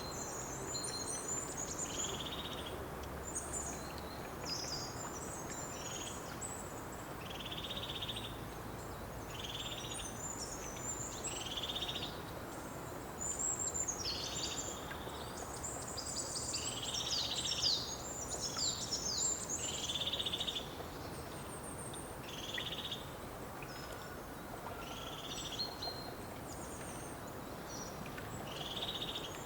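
Several wild birds singing over a steady background hiss. One bird repeats a short, rounded note about every one and a half to two seconds, while others twitter rapidly at a higher pitch, busiest through the middle.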